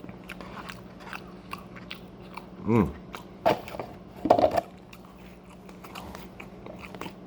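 Close-up chewing and crunching of food, with many small mouth clicks and two short voiced 'mm' sounds about two and a half and four seconds in.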